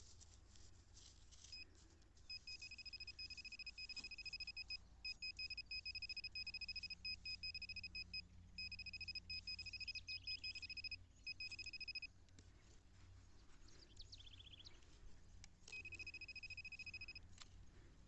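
A handheld metal detector's steady high-pitched electronic tone, sounding in long stretches with short breaks and then again briefly near the end, as it signals a metal target in the soil.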